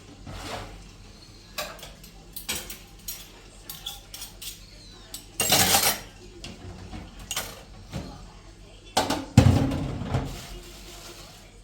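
A run of short knocks and clatters from objects being handled, with a longer noisy scrape about five and a half seconds in and a loud thump about nine seconds in.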